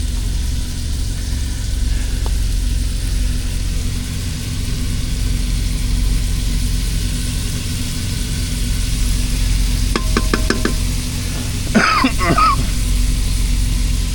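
Ground meat sizzling and being stirred in an electric cooker on its sauté setting, over a steady low hum. About ten seconds in comes a quick run of about five short clicks, then a brief wavering pitched sound.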